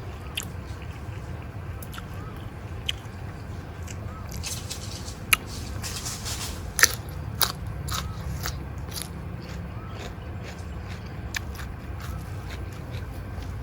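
Close-up eating sounds: chewing and crunching with scattered sharp clicks, three louder ones in the middle, over a steady low hum.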